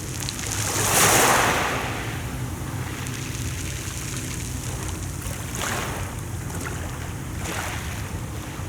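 Sea waves washing onto the shore: one loud wash about a second in and two smaller ones later, over a steady low rumble.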